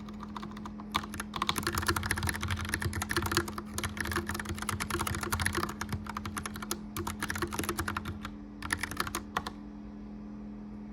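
Mechanical keyboard typed on in fast runs of clicky keystrokes, with short pauses, stopping about a second before the end. Under it runs the steady hum of a gas fireplace fan.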